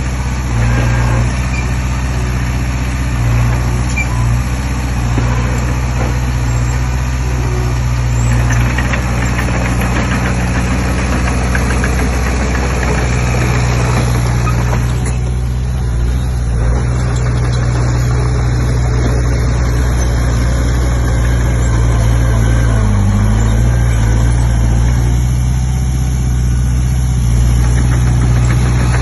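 Komatsu D20P crawler bulldozer's diesel engine running steadily under work, with a dense mechanical clatter over it that eases briefly about halfway through.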